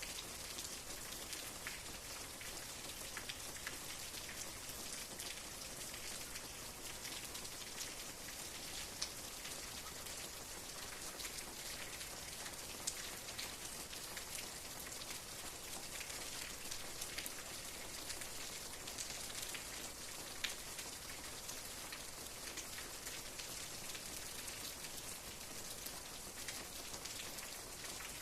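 Steady rain falling, an even hiss with scattered separate drops ticking against a surface.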